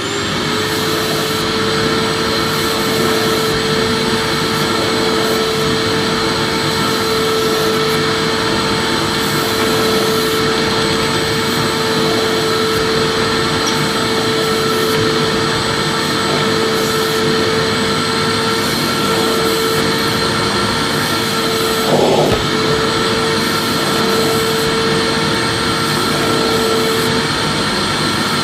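Vacuum cleaner running steadily: a constant motor whine over rushing air, with a brief wavering in pitch about 22 seconds in.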